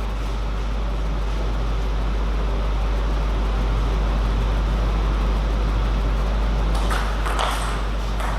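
Steady low hum with an even background hiss, between rallies, with no ball hits heard. About seven seconds in there is a brief scuffing noise.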